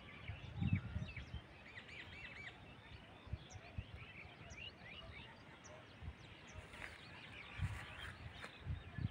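Small birds chirping in the background: many short, quick calls that sweep up and down, some repeated in a quick run about two seconds in. Scattered low thumps, typical of wind or handling on a phone microphone, sound underneath.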